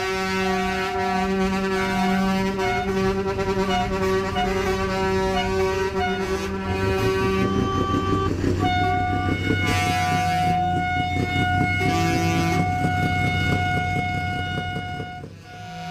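Truck air horns blowing long, held chords; the chord changes about halfway through, and a diesel engine runs beneath, until the sound fades briefly near the end.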